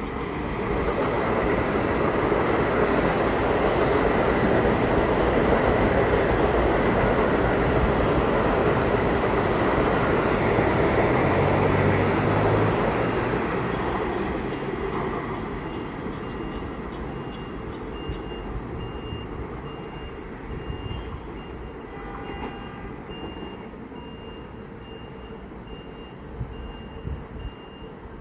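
Long Island Rail Road electric commuter train passing close by, its steel wheels rumbling and clattering on the rails. The noise builds in the first second, holds for about twelve seconds, then fades away. Through the second half, a steady series of short, high electronic beeps sounds, like a vehicle's reversing alarm.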